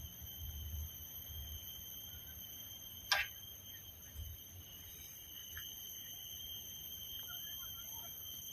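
Faint outdoor ambience: gusty low wind rumble on the microphone under a steady high-pitched whine, with a single short click about three seconds in.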